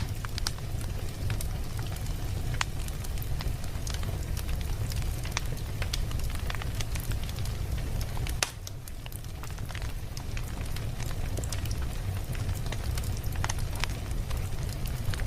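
Wood fire crackling in a fireplace: scattered sharp pops and snaps over a steady low rumble of the flames. The sound drops briefly in level a little past halfway, then carries on.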